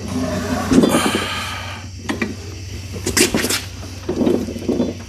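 Manual tire bead breaker being handled and set against a tire: a creak early on, a few sharp metal clicks and clanks about three seconds in, then duller knocks.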